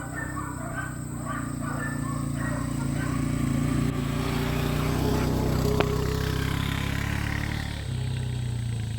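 An engine running steadily, a little louder in the middle, with faint voices in the first couple of seconds.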